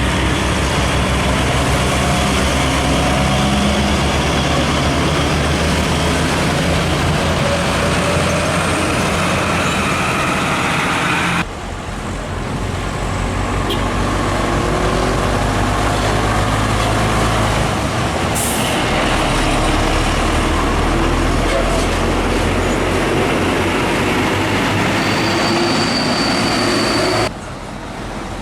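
Heavy diesel trucks running loud and close on a highway, their low engine note steady then shifting as they pass. The sound breaks off abruptly twice. A short hiss comes about two-thirds of the way in.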